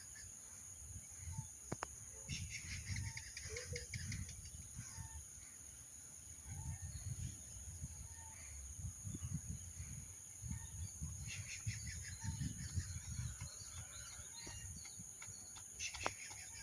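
Birds chirping in quick bursts of rapidly repeated high notes, three times, over a steady high-pitched hiss and an uneven low rumble.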